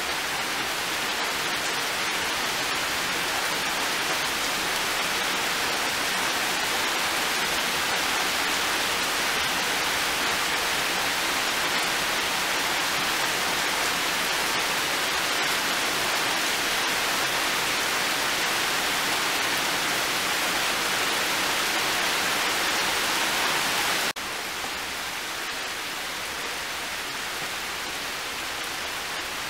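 Heavy rain falling steadily, a dense even hiss. About five seconds before the end it drops abruptly to a lighter level and stays there.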